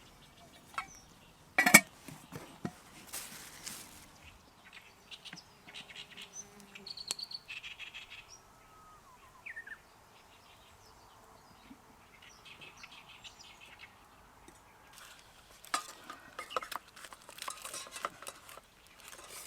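Scattered clicks and knocks of camp cookware and utensils, the loudest a sharp knock about two seconds in, with a few short bird calls between them.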